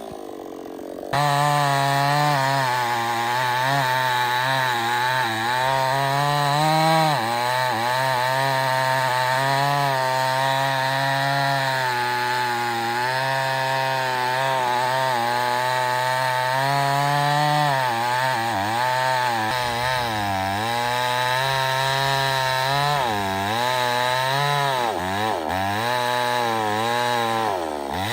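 Two-stroke chainsaw running under load while cutting wood, its engine pitch wavering and sagging as the chain bites. It drops away briefly in the first second, then comes back at full speed.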